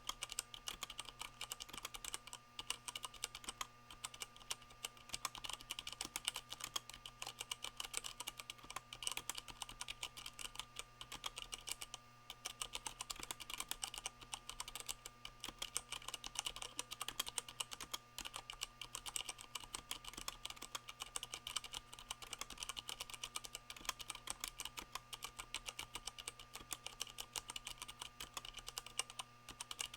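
Steady, fast typing on a Leopold FC660M mechanical keyboard with Cherry MX Brown switches fitted with O-rings, which cushion the keycaps as they bottom out, with the board resting on a microfiber towel. The keystrokes come in quick, irregular runs with a brief lull about twelve seconds in, over a faint steady hum.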